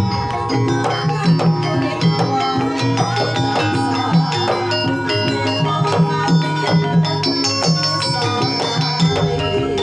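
Javanese gamelan ensemble playing a gending: struck metallophones ringing in held tones over a steady run of drum strokes.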